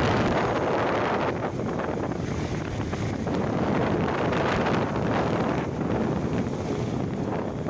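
Wind rushing and buffeting over the microphone of a moving motorcycle, a dense fluctuating rush that swells and dips.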